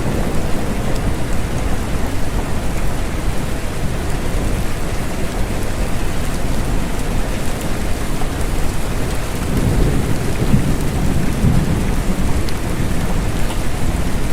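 Steady rain falling, with a low rumble of thunder swelling about ten seconds in and fading a couple of seconds later.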